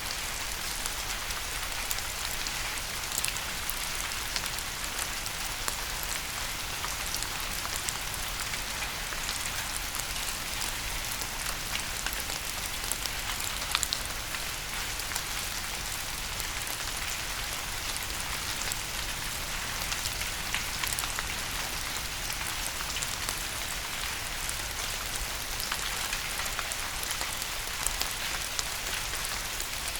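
Steady rain falling, with a constant hiss and many individual drops pattering on a surface.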